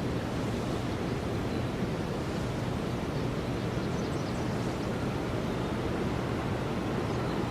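Steady rushing wind.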